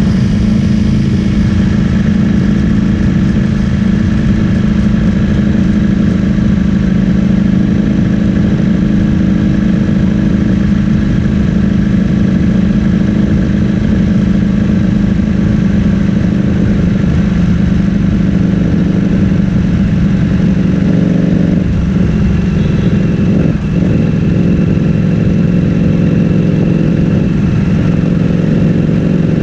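Ducati Streetfighter V4S's V4 engine through an Akrapovic full-system exhaust, running loud at a steady engine speed with little change in pitch.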